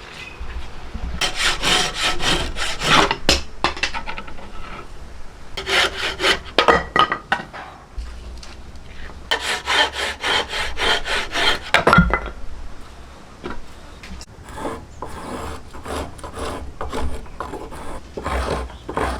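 Hand tool worked over wood in quick back-and-forth strokes, the scraping of rasping or sawing, in four bouts with short pauses between them. A single low knock comes about twelve seconds in.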